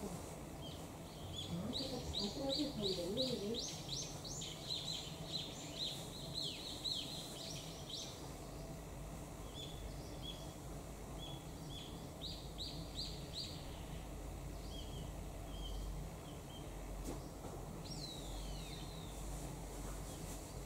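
Small birds singing: quick runs of high chirping notes about two and twelve seconds in, scattered single chirps between them, and a falling call near the end, over a steady low background hum.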